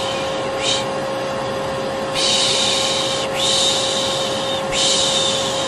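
Vacuum cleaner running steadily, with a person making soothing 'shh' shushing sounds over it to lull a baby to sleep: a short shush near the start, then long drawn-out shushes one after another from about two seconds in.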